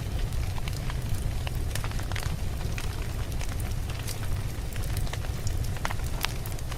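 Campfire burning with a steady low rumble and frequent sharp, irregular crackles and pops of burning wood.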